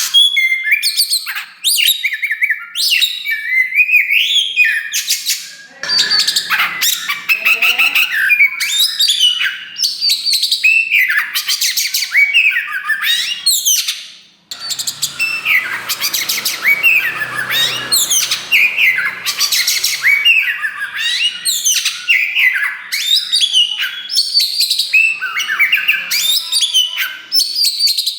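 Oriental magpie-robin of the black 'kacer wulung' form singing loudly and without let-up: a rapid run of varied whistles, trills and harsh scratchy notes, with a brief break about fourteen seconds in.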